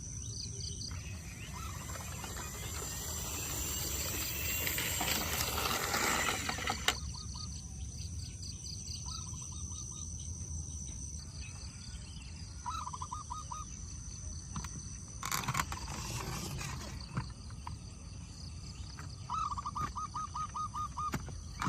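Outdoor ambience: birds chirping in quick runs of repeated notes over a steady high-pitched insect drone, with two bursts of rustling noise, the first a few seconds long and the second about halfway through.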